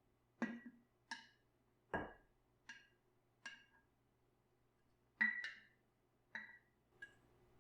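A series of about nine light knocks and clinks of hard objects being handled, each with a short ring; the loudest comes about five seconds in.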